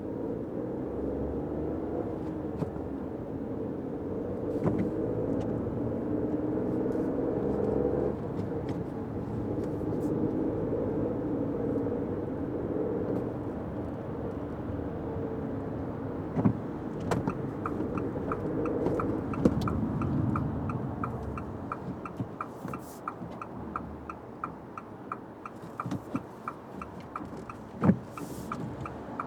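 Inside a Fiat 500X's cabin: steady road and engine noise while driving on wet roads, with scattered light taps. About halfway through, the turn-signal indicator starts ticking about twice a second, and the road noise dies down as the car slows.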